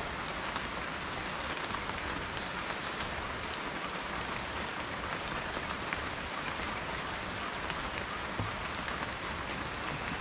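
Steady rain falling on a surface, a continuous hiss with many small individual drop ticks through it.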